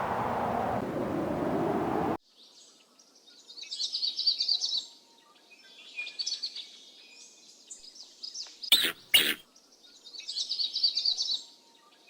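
A steady rushing noise that cuts off abruptly about two seconds in, followed by small songbirds singing in short, high, repeated trills, with two sharp clicks about nine seconds in.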